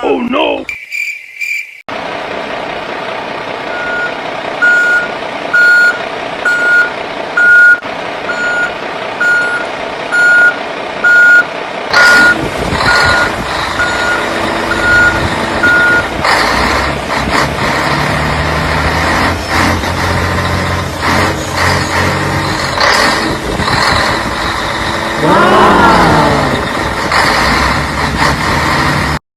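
Reversing alarm beeping at an even pace, roughly one beep every three quarters of a second, over a steady running motor, followed by knocks and machinery noise. A brief rising wail comes about 25 seconds in.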